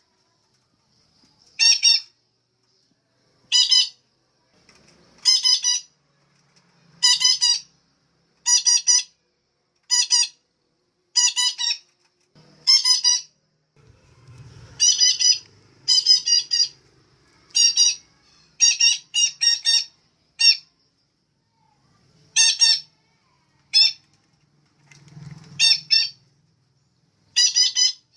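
Female betet (parakeet) calling: short harsh squawks, singly or in quick runs of two to four, repeated every second or two.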